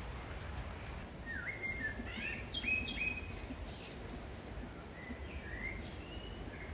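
Birds chirping: a quick run of short chirps about a second in, a few more near the end, over a steady low background noise.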